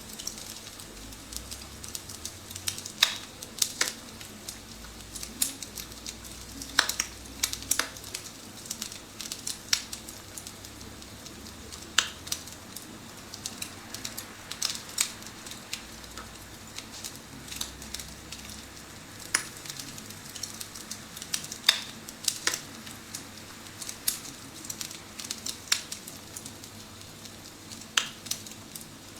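Recorded wood-fire crackling played through an iPhone's speaker inside an electric fireplace: irregular pops and snaps, a few sharper than the rest, over a steady low hiss.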